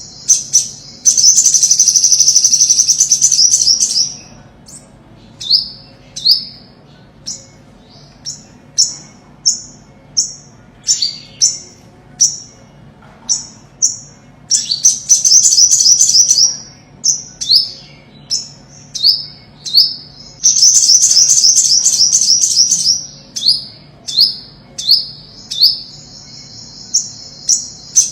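Olive-backed sunbird (ornate sunbird) singing: high, thin notes repeated about twice a second, broken three times by fast trills lasting two to three seconds each.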